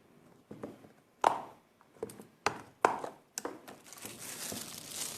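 A handful of sharp knocks and taps on a work table, the loudest two about a second and a half apart, then a steady crinkling of plastic wrap from about four seconds in as the fresh gumpaste is handled.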